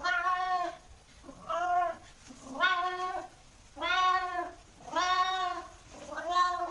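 A cat meowing over and over: six meows about a second apart, each a short pitched call that rises and falls.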